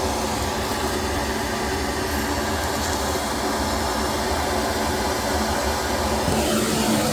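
Vacuum running steadily, an even rushing noise over a low hum, with a brief dip and rise in pitch near the end.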